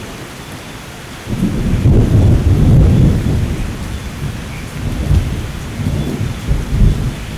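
Steady rain with a roll of thunder that breaks in about a second in, is loudest around two to three seconds, then rumbles on unevenly.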